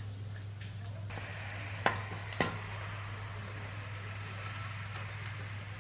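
Steady low electrical hum with two sharp knocks about half a second apart, a couple of seconds in.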